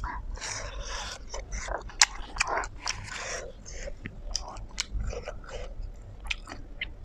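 Biting into a hot dog, then chewing it, with many sharp wet mouth clicks and smacks; the sharpest click comes about two seconds in.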